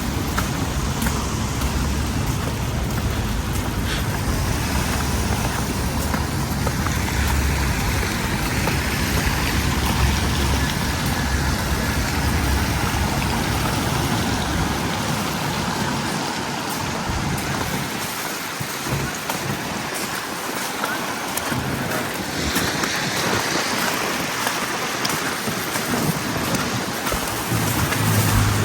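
City street ambience: a steady hiss with road traffic. A low rumble underneath drops away about halfway through.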